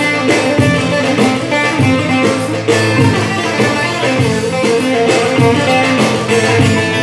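Instrumental introduction of a Turkish folk song (türkü): a bağlama plays a quick plucked melody over a steady low accompaniment.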